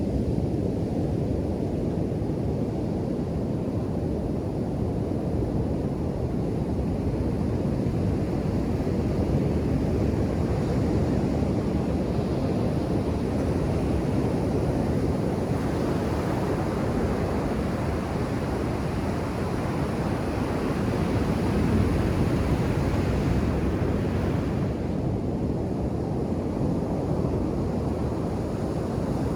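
Ocean surf on a beach, a steady low rumble of waves. From about halfway through, a wave breaks and washes in with a brighter hiss that dies away a few seconds before the end.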